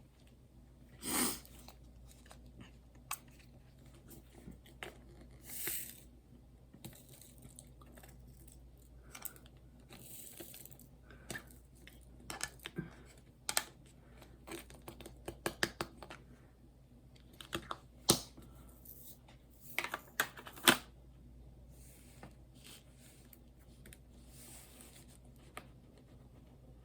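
Irregular small clicks, taps and rustles of hands handling craft materials, with a few brief tearing or crinkling sounds.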